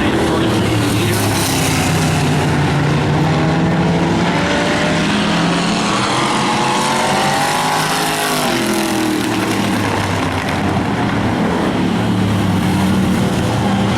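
Several demolition race cars running laps on a speedway oval, their engines going steadily. About halfway through, one engine note rises and then falls as a car goes by close.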